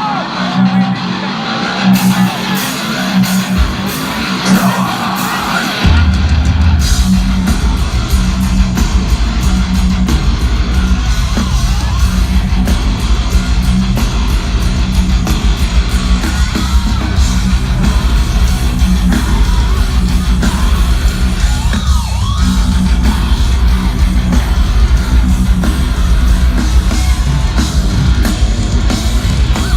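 A heavy metal band playing live at concert volume. A distorted guitar riff leads at first, then drums and bass come in about six seconds in with a fast, steady kick-drum pulse.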